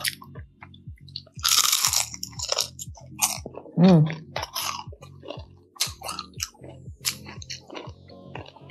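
Chewing and crunching of deep-fried, heavily battered crispy chicken skin: many short crisp crunches, with a dense burst of crackling about one and a half seconds in. A short hummed 'mm' from the eater comes about four seconds in.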